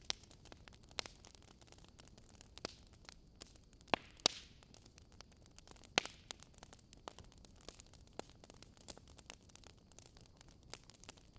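Wood fire crackling: a low hiss with scattered sharp pops and snaps, a few louder pops about four and six seconds in, one followed by a brief hiss.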